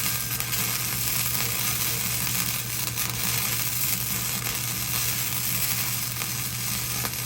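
Welding arc crackling and sizzling steadily through one continuous weld run on the steel of a smoker grill, cutting off sharply at the end.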